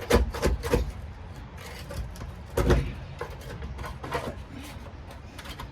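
Irregular knocks and crackles of stiff sound-deadening material being pulled up and handled on a car's bare metal floor pan: a quick cluster in the first second, a louder single knock near the middle, then a few fainter ones.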